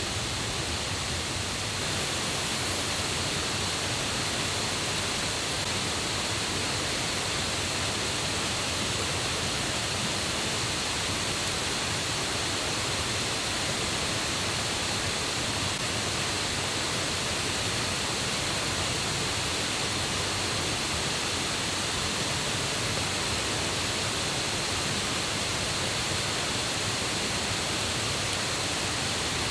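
Steady rushing of a stream and waterfall running high and loud with water from the previous day's rain.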